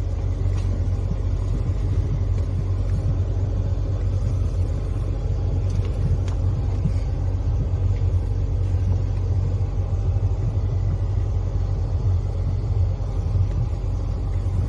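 Steady low rumble of a car moving along a road.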